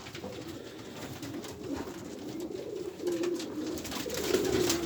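Racing pigeons cooing in the loft, one coo running into the next, with a few faint clicks.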